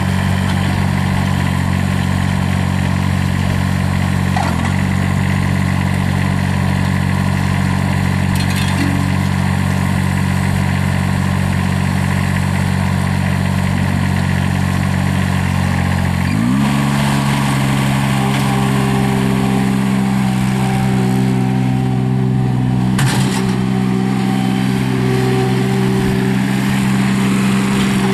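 Terramite T9's Kubota three-cylinder turbo diesel running steadily, then revving up to a higher engine speed a little over halfway through and holding there.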